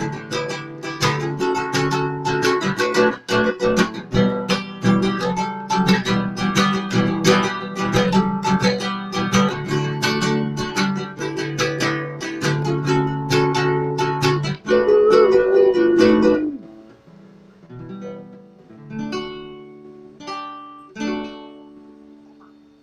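Acoustic guitar playing the song's instrumental ending: steady strummed chords that stop about sixteen seconds in, followed by a few sparse chords left to ring out and fade.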